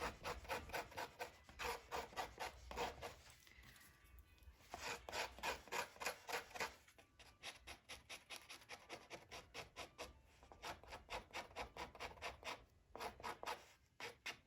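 Quick back-and-forth rubbing strokes on Torah parchment as a repair is blended in, about five strokes a second, in several runs with short pauses between them.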